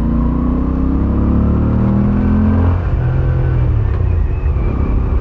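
Moto Guzzi V7 850's air-cooled transverse V-twin pulling under throttle, its pitch rising for nearly three seconds, then dropping and running on more steadily.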